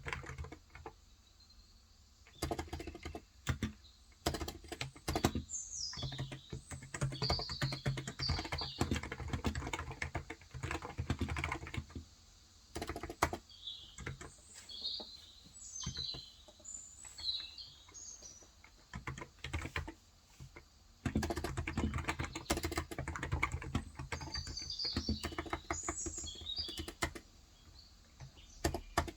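Typing on a Cox Endeavor tenkeyless keyboard with 35 g electro-capacitive (Topre-style) switches: quick runs of keystrokes broken by a few short pauses. Small birds chirp in the background in several spells.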